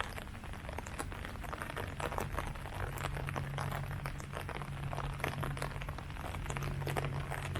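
Rain falling on tree leaves, a steady patter of many separate drop hits. A low steady hum runs underneath.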